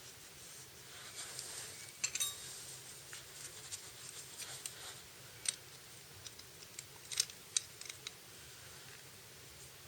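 Scattered light clicks and taps with short rustles over a faint steady hum, the sharpest clicks about two seconds in and again near the end.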